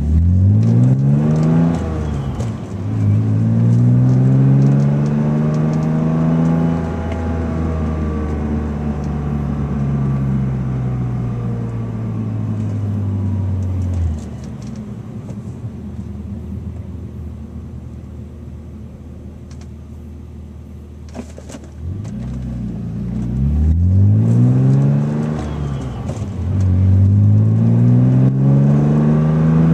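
BMW car engine heard from inside the cabin, accelerating hard with quick upshifts, each gear a rising pitch. It holds one long pull whose pitch rises and then sinks, cuts off abruptly about a third of the way in, runs quieter for several seconds, then accelerates hard through the gears again.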